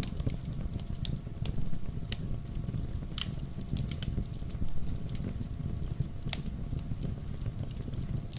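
Wood fire crackling: a steady low rumble with many sharp little pops and snaps, several a second, and a louder pop about three seconds in.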